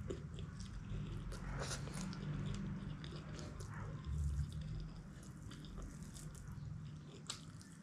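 Chewing a mouthful of egg chow mein noodles, with wet mouth sounds and many small clicks.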